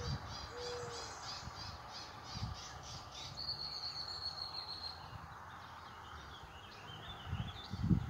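Wild birds calling: a few short, low cooing notes at the start, a rapid high chattering trill for the first few seconds, then one thin, high, held whistle, over a faint steady outdoor hiss. A low thump near the end.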